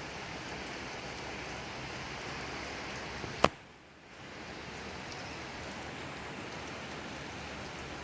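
Steady rain falling, an even hiss. About three and a half seconds in, a single sharp click, after which the rain drops away and fades back in within about a second and a half.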